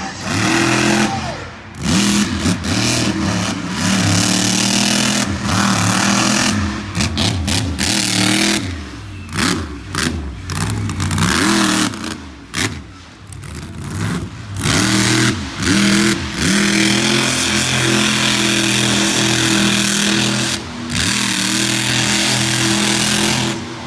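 Monster truck engine revving hard again and again, its pitch climbing and dropping as the throttle is blipped and held during a freestyle run.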